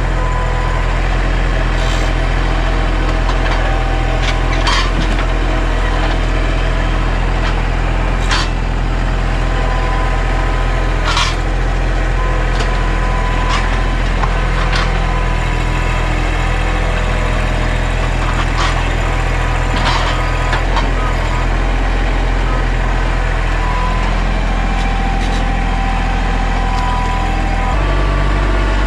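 Mahindra 1626 sub-compact tractor's diesel engine running steadily under work, with about nine sharp knocks or cracks scattered through it. The engine note shifts near the end.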